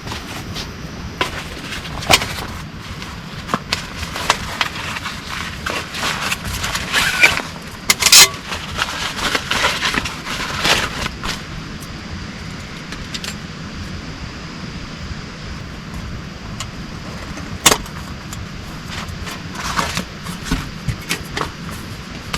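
Steady rain with scattered sharp clicks and knocks over it, a dense run of them about six to eleven seconds in and a single sharp knock near the end.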